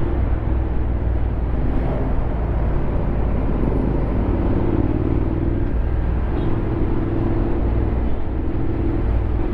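Honda X-ADV 750's parallel-twin engine running steadily while the scooter is ridden, with a low, even hum throughout.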